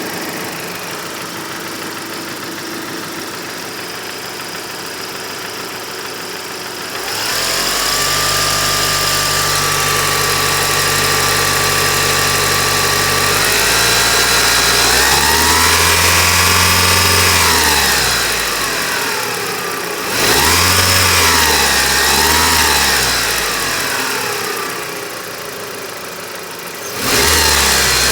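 Mitsubishi 4G63 inline-four engine, balance shafts removed, idling, then revved to a steady raised speed and held, rising further and falling back, blipped twice, settling to idle and revved again near the end. The owner reports a knock from this engine, and a drone between 3,500 and 4,500 rpm.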